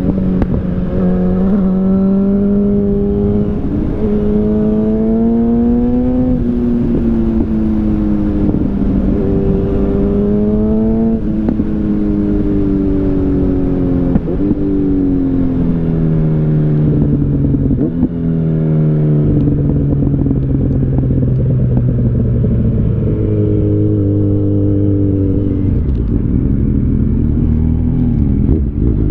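Yamaha FZ8's inline-four engine through an SC Project exhaust, pulling up through the gears: the engine note climbs steadily and drops sharply at each of several upshifts, then falls away slowly as the bike eases off, with shorter rises and drops near the end.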